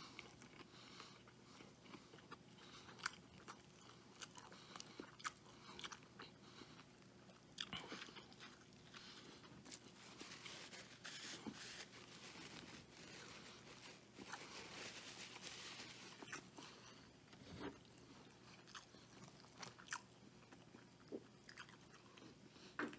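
Faint close-up chewing and biting of a bacon cheeseburger: soft crunches and wet mouth clicks, a few at a time.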